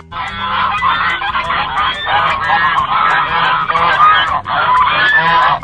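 A flock of geese honking, many birds calling over one another in a dense, continuous chorus.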